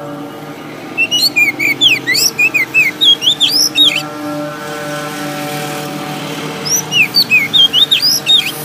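Bird chirping in two bursts of rapid, quick chirps, about a second in and again near the end, over a steady low droning tone.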